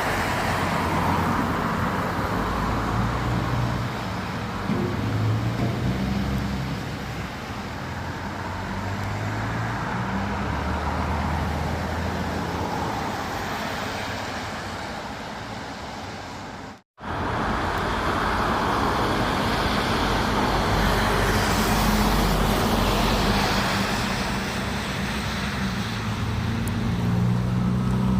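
Heavy trucks' engines running as they drive along the road, the low engine note shifting in pitch over tyre and traffic noise. There is a brief cut to silence about 17 seconds in, after which the truck traffic sound resumes.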